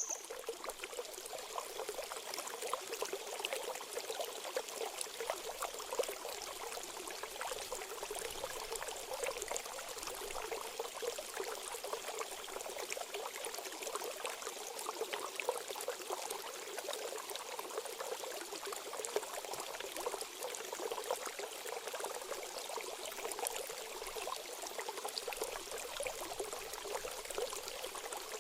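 Running water flowing steadily, a continuous trickling stream.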